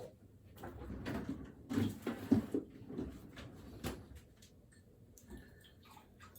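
Handling noises: a cluster of soft knocks and rustles from about one to four seconds in, loudest just after two seconds.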